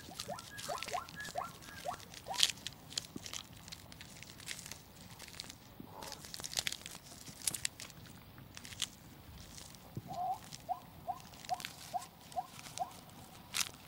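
Plains zebras grazing: scattered crunches and clicks of dry grass being cropped and of hooves and bodies shifting on the ground. Short falling chirps come in a few at the start and in a run of about eight evenly spaced ones near the end.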